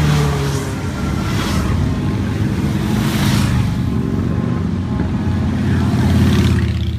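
A steady stream of motorcycles riding past, many engines running at once, with individual bikes swelling louder as they go by. The loudest pass comes about six seconds in.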